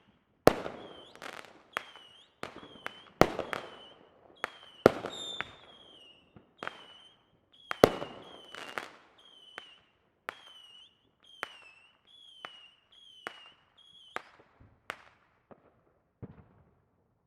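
Distant fireworks going off across a city, a rapid irregular string of sharp bangs with echoing tails, several of them loud. Many bangs are followed by a short high chirping tone. The bangs thin out over the last several seconds.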